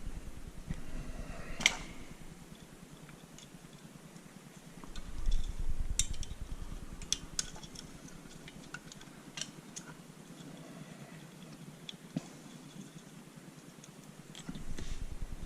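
Scattered light clicks and metallic clinks of wires and a metal protective cover being handled, with the sharpest click about two seconds in and a louder low rustle about five seconds in.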